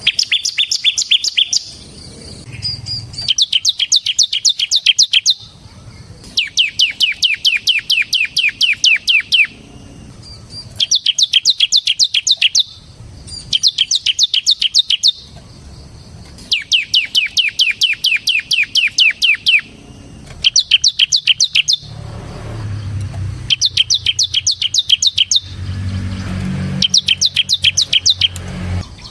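Bar-winged prinia (ciblek) singing its rapid drilling "ngebren" song: about ten bursts of fast, evenly repeated high notes, each one to three seconds long, with short pauses between. A low rumble sits underneath in the last several seconds.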